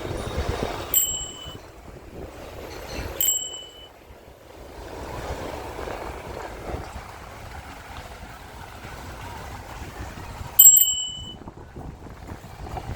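Bicycle bell rung three times, a single bright ding each time: about a second in, about three seconds in, and again about ten seconds in. Under the dings is steady outdoor street and wind noise.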